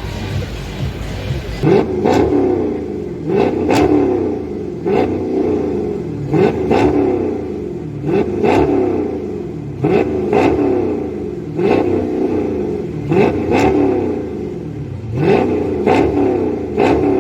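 A car engine being revved over and over with quick throttle blips, about one every second and a half. Each one rises sharply in pitch and falls away again, with sharp cracks at the peaks.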